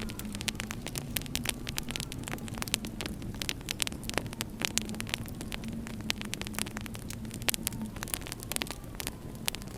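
Wood fire in a fireplace crackling, with frequent irregular sharp pops and snaps over a low steady hum.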